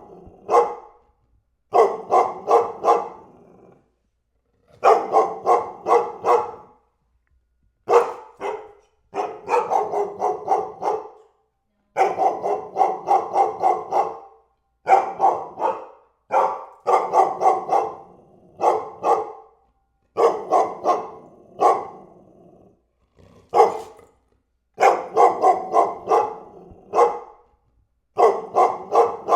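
A dog barking repeatedly in quick volleys of three to six barks, with short silent gaps between the volleys.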